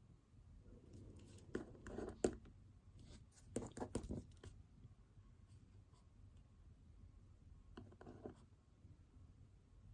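Faint pen strokes scratching on paper in three short spells, the busiest about two and four seconds in, a smaller one near eight seconds.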